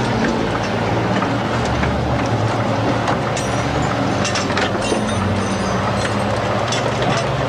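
Audi quattro A2 rally car's engine idling steadily at a low hum, with scattered short metallic clicks from work on the car.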